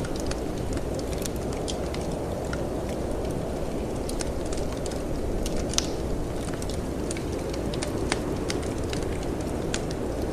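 Wood fire in a fireplace crackling, with irregular sharp pops and snaps over a steady low rumble of storm wind.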